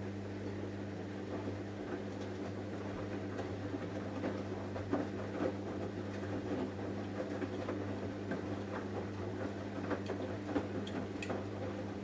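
Samsung Eco Bubble washing machine in its wash phase: a steady motor hum with the drum turning, and wet laundry and water sloshing and pattering in many small irregular splashes and ticks.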